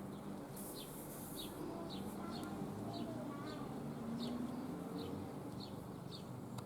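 Faint bird chirps, short high notes repeated every half second or so, over a low background hum.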